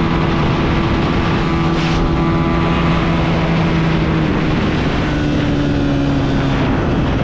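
Honda 125 single-cylinder four-stroke motorcycle engines running hard at a steady high speed over a rushing noise. The engine tone shifts slightly about five seconds in.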